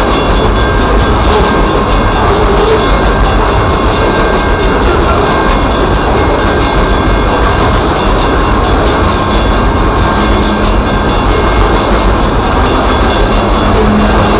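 Loaded coal hopper cars of a Union Pacific coal train rolling past at a grade crossing, with a loud, steady rumble of wheels on rail. Over it a crossing signal bell rings rapidly and evenly.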